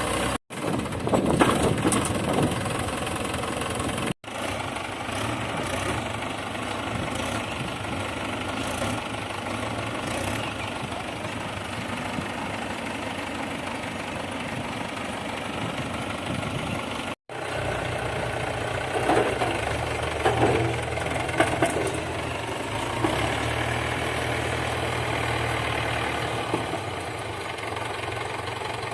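Mahindra 475 DI tractor's four-cylinder diesel engine running steadily, rising in level briefly near the start and again about two-thirds through. The sound drops out abruptly for an instant three times.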